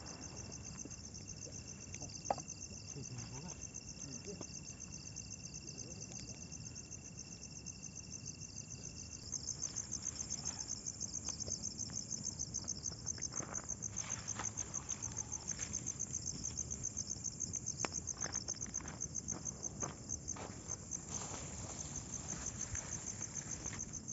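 Crickets chirping in a fast, even pulsing trill that grows louder about nine seconds in, with a thin steady high whine that stops at about the same point.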